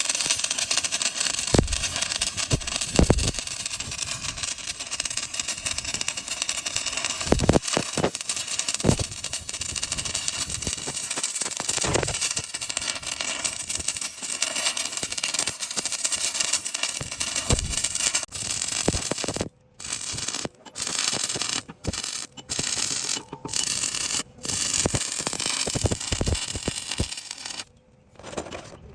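Arc welding on a steel excavator boom: a steady crackling hiss with scattered sharp knocks, cut off abruptly several times near the end.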